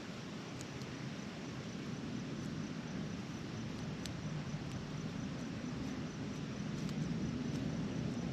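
Steady wind noise, a low rumbling hiss that swells slightly, with a faint, evenly repeating insect chirp above it and a few small clicks.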